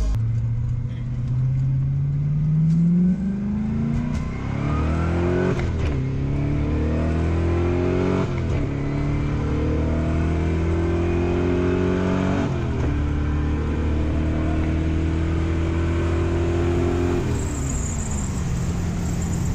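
Corvette's V8 heard from inside the cabin, accelerating up through the gears: the engine note climbs and drops back at each of four upshifts, about three, six, eight and a half and twelve and a half seconds in. It then holds a steady cruise note and falls away as the throttle eases near the end.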